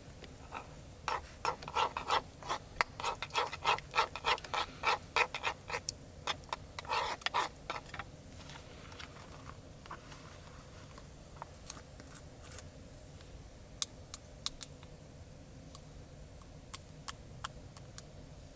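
Quick scraping and rubbing strokes, several a second, for about seven seconds, like metal cooking gear being handled. Then scattered sharp pops and crackles, typical of a campfire.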